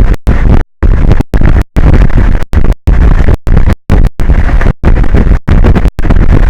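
Strong wind buffeting an outdoor microphone, a loud rumbling noise strongest in the low end that cuts out abruptly to silence again and again, about once or twice a second, until near the end, when it runs on unbroken.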